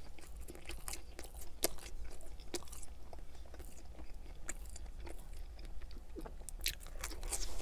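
A person chewing a bite of pizza crust dipped in a creamy white sauce, close to the microphone: soft, wet mouth clicks and smacks, with a few sharper clicks scattered through.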